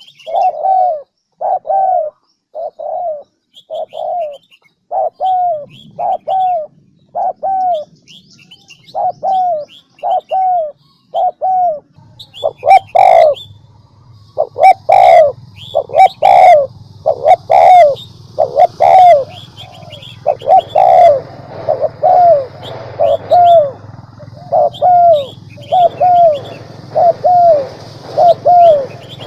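Decoy spotted dove cooing: a long run of short, low coos repeated about once every 0.7 seconds, with small birds chirping faintly behind it. About twelve seconds in, a steady low hum joins, and a high hiss follows soon after.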